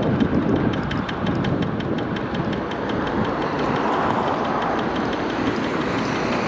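MiniPro Mi716 electric scooter riding along, with a steady rumble of tyres and wind and a rapid, even ticking of about five knocks a second. The ticking is the knock from the front wheel that the rider heard over part of the ride.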